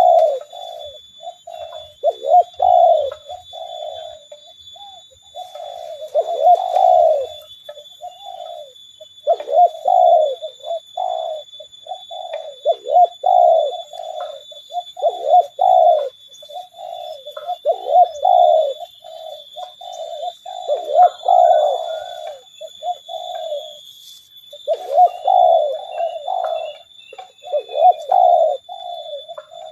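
Spotted doves cooing over and over in repeated phrases, the decoy bird and wild doves calling back and forth. A steady faint high-pitched tone runs underneath.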